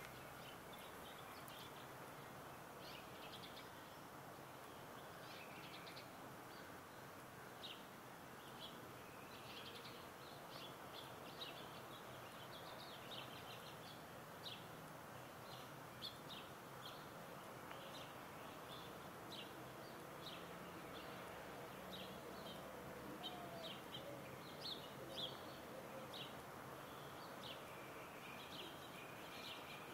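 Several wild birds chirping, with many short, high chirps scattered throughout, faint over a steady background hiss.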